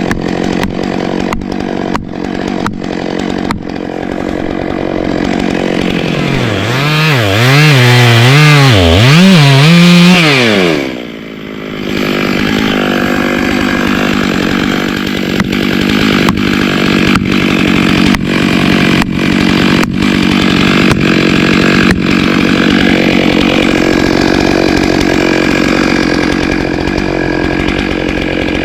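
Gas chainsaw running at full throttle, cutting into a tree. In the middle the engine pitch swings up and down several times as the throttle is worked, dips briefly, then settles back to steady cutting.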